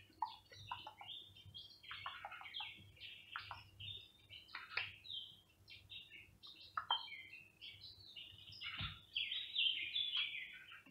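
Small songbirds chirping and twittering, many quick overlapping calls with hardly a pause, busiest near the end.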